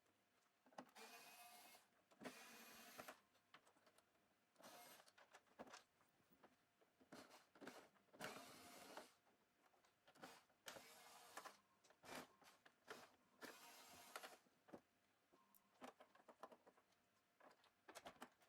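Faint short whirs of a small electric screwdriver backing out screws from the TV's rear cover, about seven bursts of half a second to a second each, with light clicks and knocks of plastic and metal in between.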